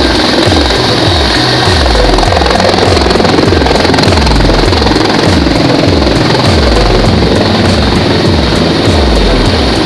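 A helicopter running loud and close, its rotor blades making a steady, rapid low pulsing.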